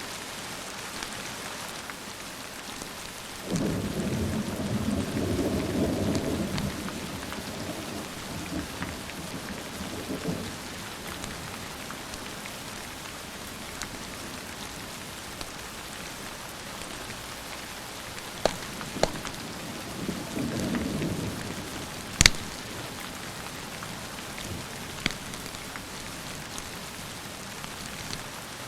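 Steady rain with two rolls of thunder: one starts about 3.5 s in and lasts about three seconds, and a shorter one comes around 20 seconds in. A few sharp pops from a crackling wood fire sound in the second half, the loudest at about 22 seconds.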